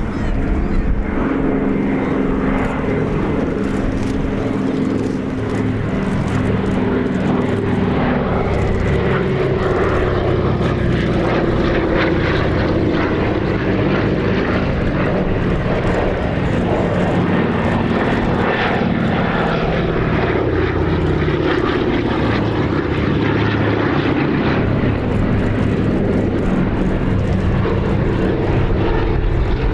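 Several Douglas C-47 / DC-3 twin-engine transports fly past in formation, their piston radial engines and propellers droning steadily. The engine note slides lower in pitch as they pass, more than once.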